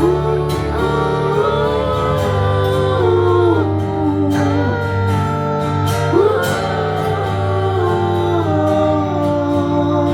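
Live band music between sung lines: acoustic guitar under a gliding, bending lead melody, over steady low bass notes.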